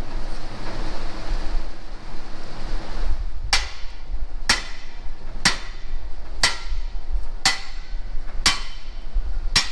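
A hammer striking steel: seven sharp, ringing blows at a steady pace of about one a second, starting about a third of the way in.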